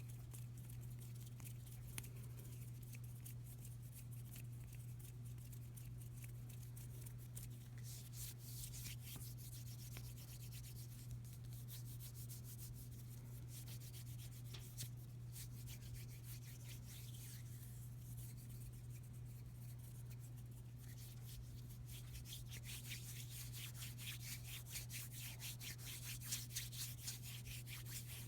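Bare hands rubbing together, a soft dry skin-on-skin friction, quickening into fast back-and-forth strokes at times.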